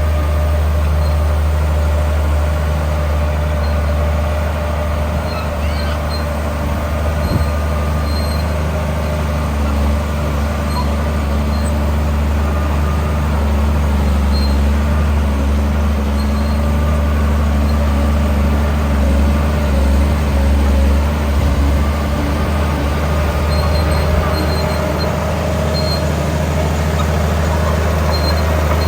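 Heavy diesel engine of earthmoving machinery running steadily under load, a constant deep drone with no pauses or sharp changes.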